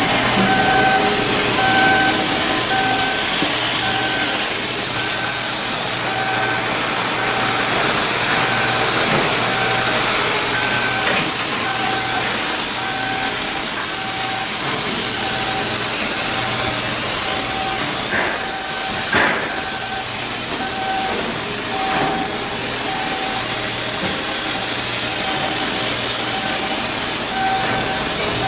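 Loud, steady machinery noise with a strong hiss, under a tone that beeps on and off in short pulses.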